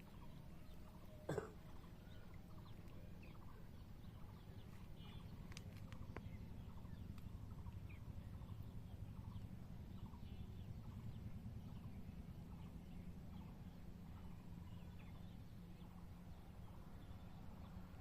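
Faint bird calls over a steady low hum, with one short louder call about a second in.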